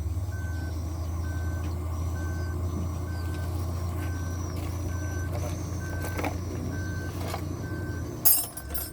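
Isuzu Giga dump truck's diesel engine idling with a low steady hum while an electronic warning beeper sounds at an even pace, about every three-quarters of a second. Near the end the engine hum drops away and a short, loud hiss of air is heard.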